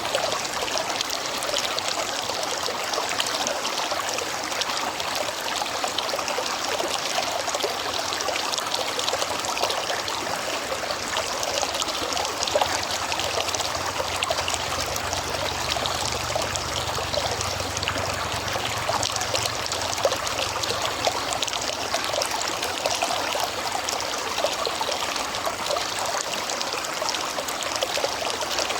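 A natural river running steadily, a continuous even rush and trickle of water over its bed. A faint low hum rises and fades in the middle.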